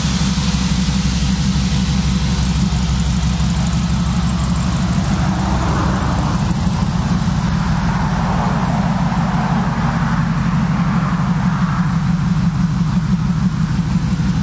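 Chevrolet C10 pickup truck's engine idling steadily, its exhaust a low, even rumble.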